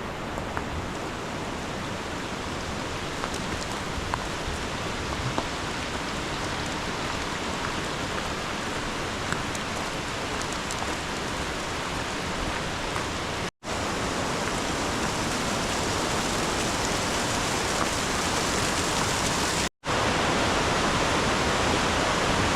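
Steady rush of a rain-swollen river or waterfall in spate. It breaks off for two very brief silent gaps, and is a little louder after the second.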